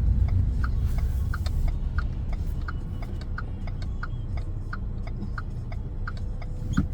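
A car's turn-signal indicator ticking steadily, about three ticks a second, over the low rumble of the car, which quietens about two seconds in as the car slows.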